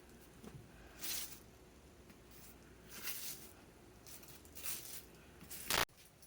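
Several brief rustling handling noises over a faint low hum, the last and loudest cut off sharply near the end.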